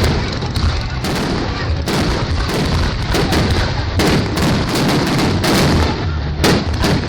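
Fireworks display: aerial shells bursting with sharp bangs about two a second, overlapping over a continuous low rumble.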